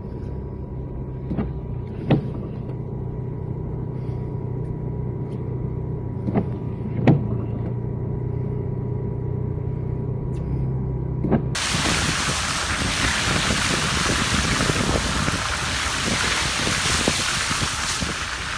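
A car engine idling with a steady low hum, heard from inside the cabin, with a few sharp clicks. About two-thirds of the way in it cuts abruptly to a loud, steady hiss of water.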